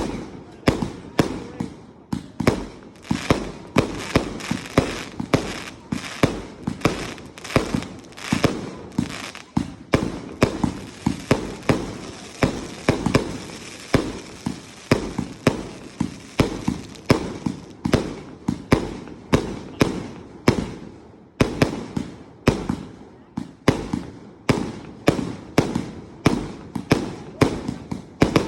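Fireworks going off in rapid succession: a long unbroken run of sharp bangs, about two to three a second, each with a short echoing tail.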